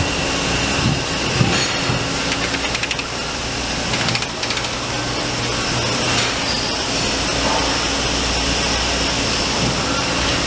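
Amada CNC turret punch press running: a steady machine hum with rapid runs of punching strokes about two seconds in and again around four seconds.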